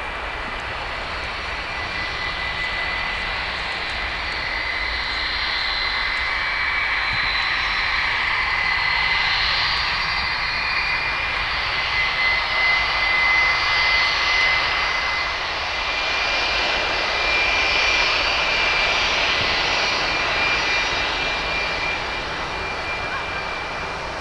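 Jet aircraft engines running with a steady high whine over a rushing noise. The sound builds through the middle, then eases near the end.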